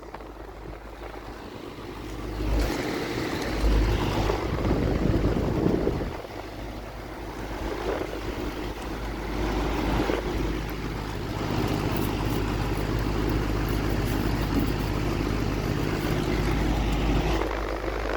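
Outdoor air conditioner condensing units running: a steady low compressor hum under fan noise, with wind buffeting the microphone in swells.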